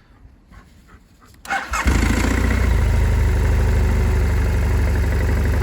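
BMW F650GS 798 cc parallel-twin engine cold-started on the electric starter about a second and a half in, catching almost at once and settling into a steady idle.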